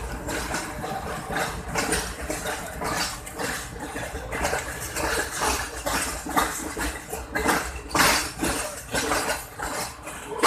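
Passenger train coach rolling slowly over jointed track and points: irregular metallic clanks and knocks from the wheels and couplings over a steady rumble, the loudest clank about eight seconds in.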